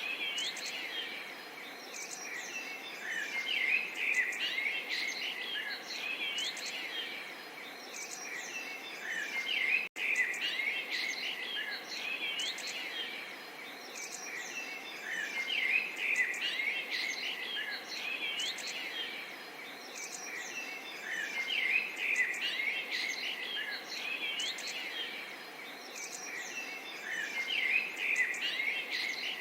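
Many small songbirds chirping and trilling over a gentle, steady babble of water. The sound breaks off for an instant about ten seconds in.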